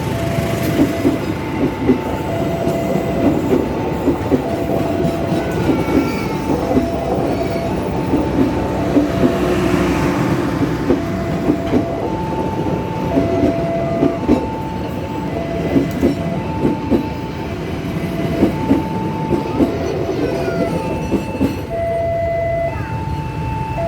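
A train passing over a level crossing, its wheels rumbling and clacking over the rail joints, while the crossing's warning signal sounds an alternating two-note electronic beep, low then high, about once a second each.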